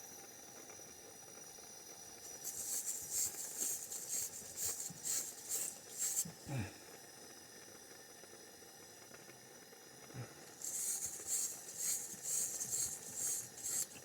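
Two spells of quick back-and-forth scrubbing strokes, about three a second, high and scratchy: an abrasive brush or cloth cleaning pipe metal for soldering.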